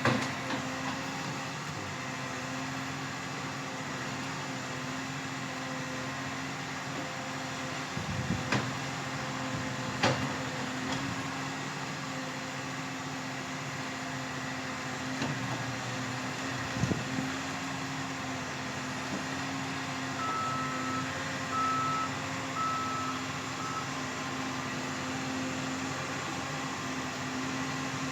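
Forestry harvester's diesel engine running steadily, with several sharp knocks and cracks. About two-thirds of the way in, its reversing alarm gives four short beeps.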